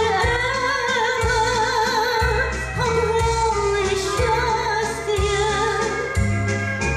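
A high voice singing a song with vibrato over instrumental accompaniment with a steady bass line.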